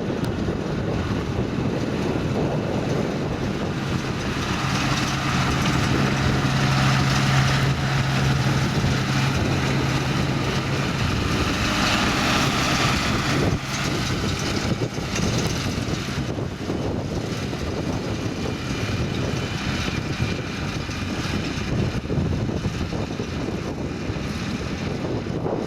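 Massey Ferguson tractor engine working under load with a McHale baler, steady in pitch, growing louder through the middle as the outfit passes close and then easing off.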